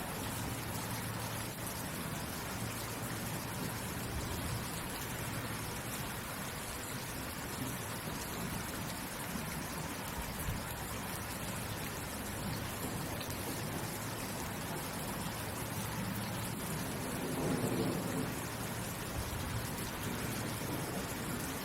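Steady rain falling as a constant, even hiss. About three-quarters of the way through there is a brief louder, low swell.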